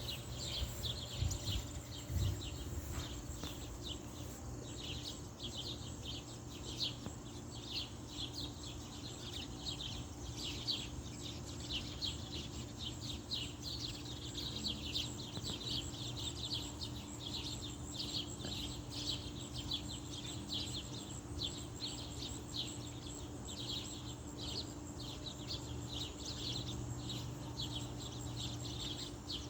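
Back-yard birds chirping, many short high notes in quick, continuous succession over a steady low background hum.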